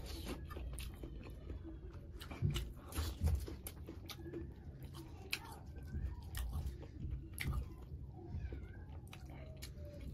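Close-miked chewing of a mouthful of chicken curry and rice: irregular wet mouth smacks and clicks.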